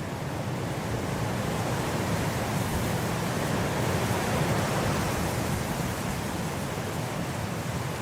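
Blizzard wind blowing as a dense, steady rushing hiss, swelling in a gust around the middle and easing again.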